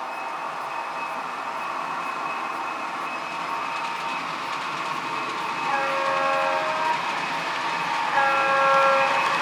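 DCC sound decoder in a model of an Irish Rail 29000-class diesel railcar, playing the railcar's engine running steadily. Two short horn blasts sound over it, the first about six seconds in and the second about two and a half seconds later.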